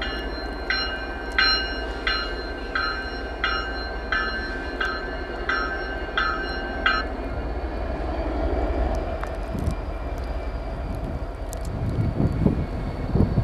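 Diesel freight locomotives rumbling as a train pulls through the yard, with a bell ringing steadily, about three strikes every two seconds, that stops about seven seconds in. The rumble grows louder near the end.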